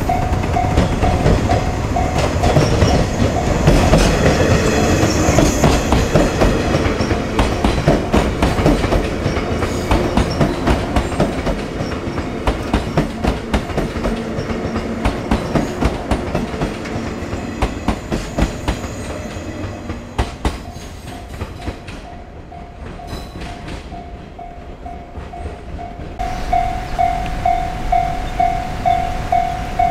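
Electric train passing, its wheels clicking rapidly and evenly over the rail joints, then fading about three quarters of the way through. A pulsing warning bell rings at the start and starts again suddenly near the end.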